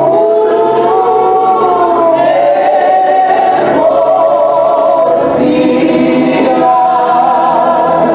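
A group of voices singing a gospel song together, holding long, gliding notes in harmony.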